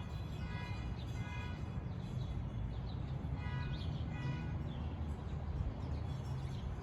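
Outdoor ambience: birds calling, with a repeated pitched note about twice a second in the first part and again around the middle, plus short rising chirps, over a steady low rumble.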